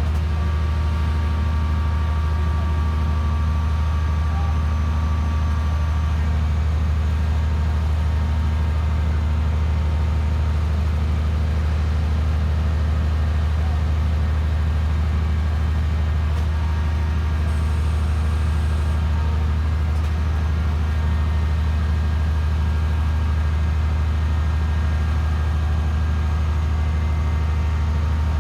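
Hydraulic static pile driving machine's engine and hydraulic power pack running steadily with a low, even drone and no hammer blows.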